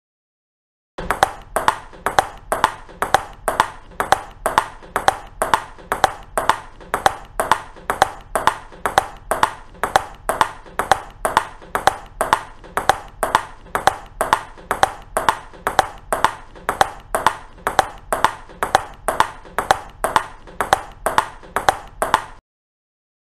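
Ping-pong (table tennis) ball being played, a steady series of sharp clicks at about two a second. It starts about a second in and stops shortly before the end.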